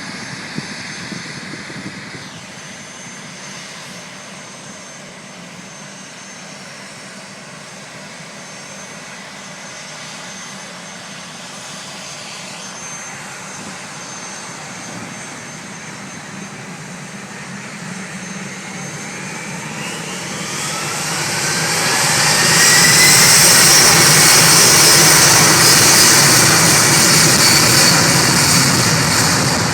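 Boeing 757 twin jet engines at takeoff: a low steady rumble, then a whine that rises in pitch about two-thirds of the way in as the engines spool up, swelling into a loud jet roar that peaks and begins to ease near the end.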